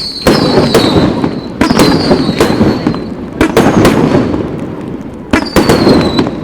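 Aerial fireworks shells bursting in quick succession, sharp bangs with a rumbling crackle between them. A high falling whistle follows several of the bursts, and the firing lulls for about a second near the end before the bangs resume.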